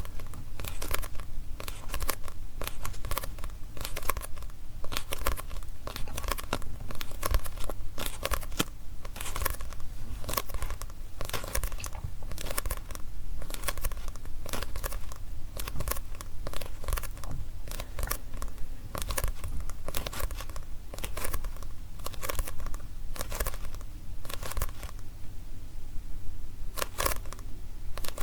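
Fingers tapping rapidly on a manga book, dense dry papery taps on its pages and cover, with a short pause a few seconds before the end.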